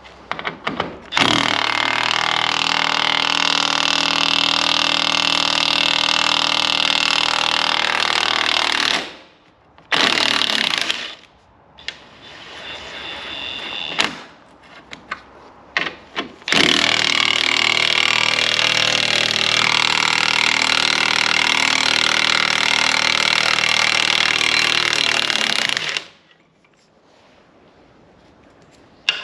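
Impact wrench hammering at rusted chassis bolts to undo them, in two long runs of about eight and nine seconds with a short burst and a brief run between.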